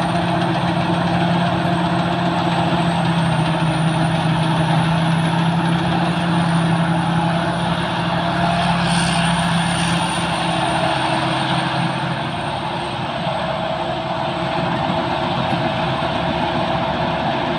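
Sakphatthana KM-D rice combine harvester running steadily as it harvests, a continuous engine drone with a thin high whine over it.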